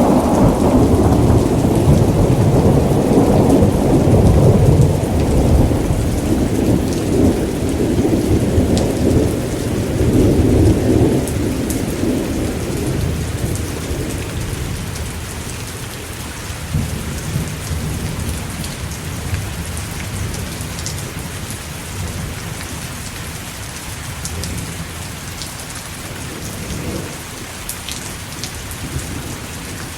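Thunderstorm: steady rain with a long, rolling thunder rumble through the first half that dies away about halfway through. Fainter rumbles return later, and the rain keeps falling with scattered drop ticks.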